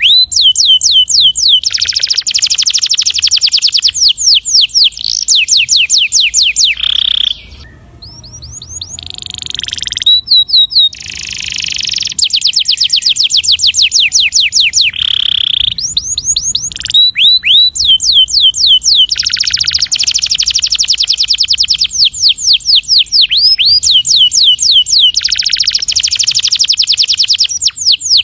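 Canary singing long rolling trills: fast runs of rapidly repeated high notes, each sweeping down in pitch, with a short lull about eight seconds in.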